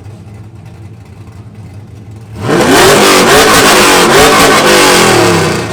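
A car engine idling, then revved hard and very loud through its exhaust about two seconds in. The revs are held high with the pitch wavering up and down for about three seconds, then drop back toward idle near the end.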